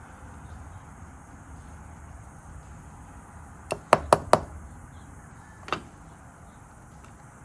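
Sharp metallic clicks of small lock cylinder parts being handled during rekeying: a quick run of four about four seconds in, then one more a little later.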